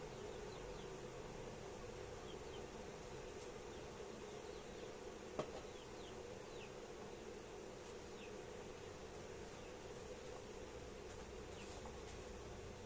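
Faint steady buzzing hum, with a few short, high, falling chirps scattered through it and a single sharp click about five seconds in.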